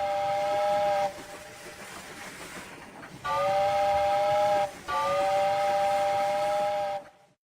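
Train whistle sounding in three long blasts: one ending about a second in, then after a pause two more with a short break between them, each a steady two-note chord. A rumbling hiss from the train runs underneath.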